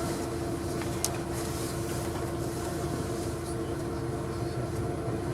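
Steady drone of a bus engine running, heard from inside the cabin, with a few steady hum tones over a low rumble. One short click about a second in.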